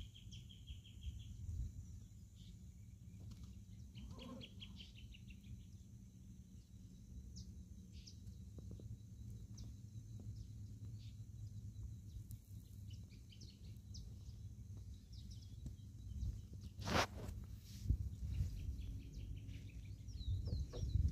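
Faint outdoor ambience: small birds chirping and trilling now and then over a low wind rumble on the microphone. A single sharp knock comes late on.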